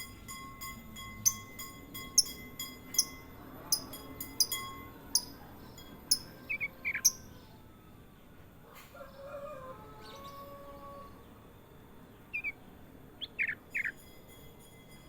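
A kutilang emas bulbul calling in a run of short, sharp, high chirps over the first seven seconds. After a quieter stretch, a few quick down-slurred notes come near the end.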